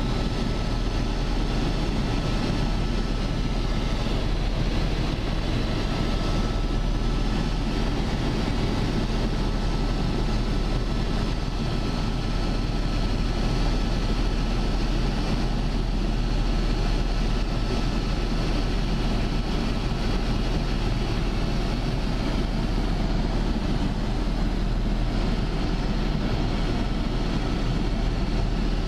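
Steady engine and rotor noise heard inside a helicopter cabin, a constant low drone with a faint high whine.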